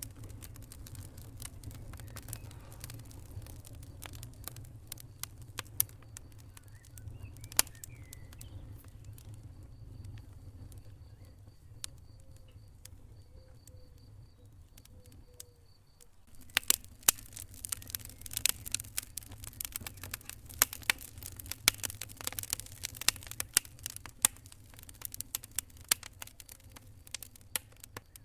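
Wood fire crackling in a fireplace over a low, steady rumble of flame. Scattered sharp pops come first, then a brief quieter lull past the middle, then dense, rapid crackling through the second half.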